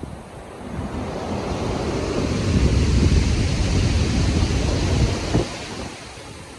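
Stormy sea: a big wave surges in and breaks as a rush of surf with a heavy low rumble. It builds over about two seconds, then falls away suddenly a little past five seconds in, leaving a quieter steady wash of water and wind.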